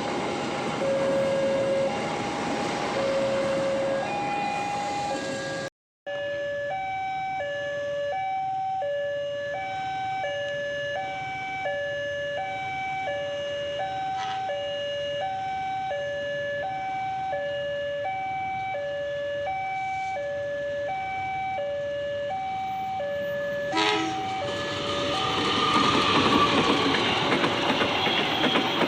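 Railway level-crossing warning alarm sounding a steady two-tone alternation, low then high, about one note a second. For the first few seconds a passing train's rumble lies under it, and near the end an approaching train grows loud beneath the alarm.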